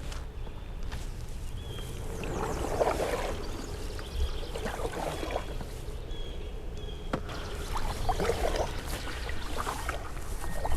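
Canoe paddle strokes in river water, a soft swish and trickle of water roughly every two to three seconds.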